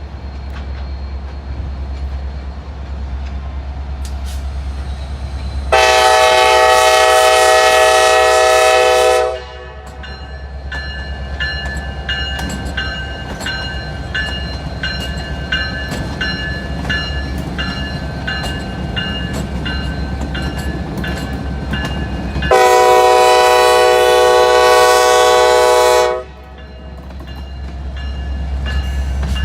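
Diesel freight locomotive air horn sounding two long blasts of about three and a half seconds each, separated by about thirteen seconds, over the steady rumble of the train.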